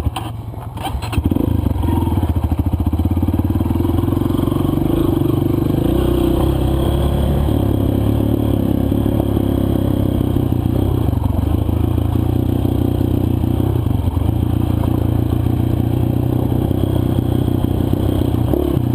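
Four-stroke dirt bike engine running steadily under way on a loose, dry trail, picking up about a second in after a few knocks.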